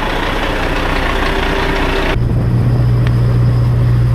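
Diesel semi-truck engine idling. About two seconds in, the sound switches abruptly to a steadier, deeper drone.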